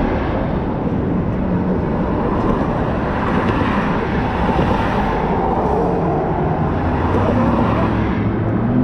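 Sport motorcycle riding along, its engine running under a loud rush of road and wind noise. Near the end the engine note settles into a steady tone.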